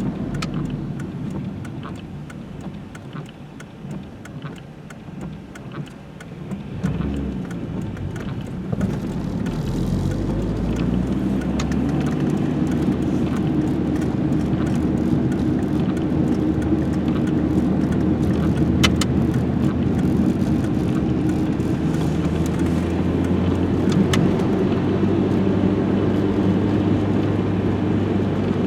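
Car engine running, with tyre and road noise as on a drive: quieter and uneven for the first several seconds, then a steady engine hum from about eight seconds in. The car is the Renault 21 GTS, with a 1.7-litre carburettor engine.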